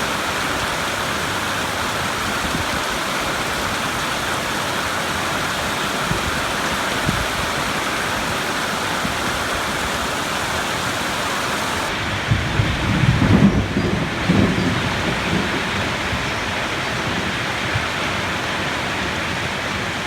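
Steady rain falling, with a low rumble of thunder starting about twelve seconds in and rolling for a few seconds.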